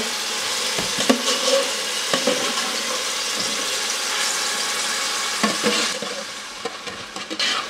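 Blended pepper-and-tomato mix frying in hot palm oil with a steady sizzle as it is spooned into the pot, with a few clinks of the metal spoon against the pans. The sizzle eases off about six seconds in.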